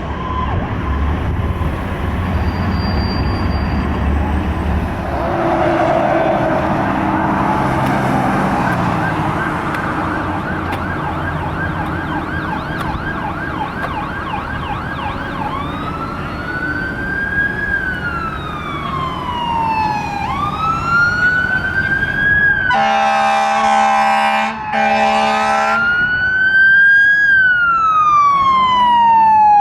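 Emergency vehicle sirens on responding fire apparatus: a fast yelp first, then a slow wail rising and falling about every five seconds. Near two-thirds of the way through, an air horn blasts for about three seconds with a short break, over the wail.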